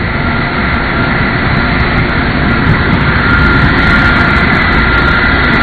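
Boeing 747 Shuttle Carrier Aircraft's jet engines running: a steady rushing noise with a high whine held on two steady pitches, growing slightly louder.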